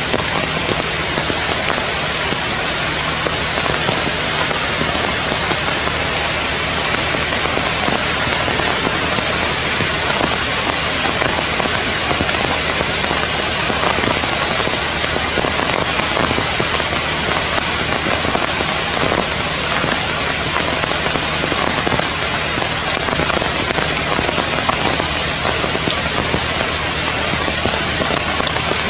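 Steady rain falling on the leaves of forest trees: a dense, even hiss of drops that keeps on without a break.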